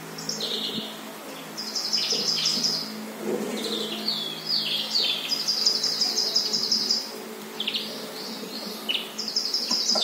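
Small songbirds chirping from a nature video played on a TV: rapid high chirp trills of a second or more repeat every few seconds, with shorter sliding call notes in between.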